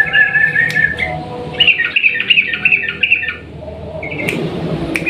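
Yellow-vented bulbul (trucukan) singing loud, bubbly runs of quick, chattering notes: a short run right away, a longer run of about two seconds in the middle, then a brief note and a new run starting near the end.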